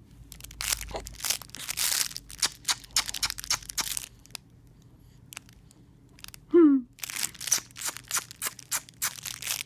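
Crinkling, crackling handling noise in two spells, with a short falling baby's vocal sound about six and a half seconds in.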